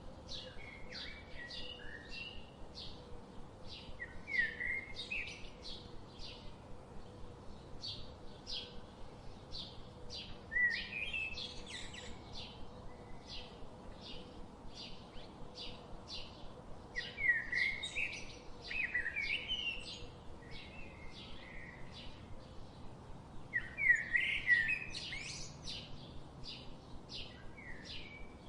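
Songbirds singing: one repeats a short, high chirp about twice a second without a break, while another sings brief warbling phrases every few seconds, the loudest near the end.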